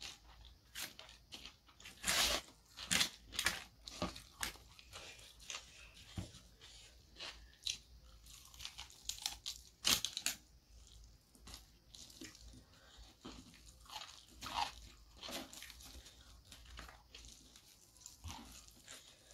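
Close-up chewing and crunching of crispy fried chicken coating, a run of sharp crunches that are loudest about two to three and a half seconds in and again around ten seconds.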